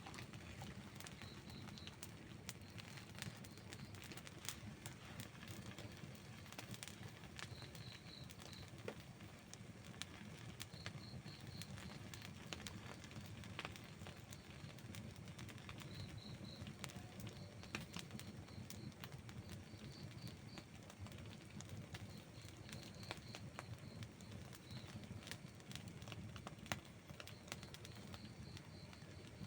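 Outdoor wood campfire crackling and popping: a steady scatter of sharp clicks over a low, even rumble. A faint high chirping comes in short groups every few seconds.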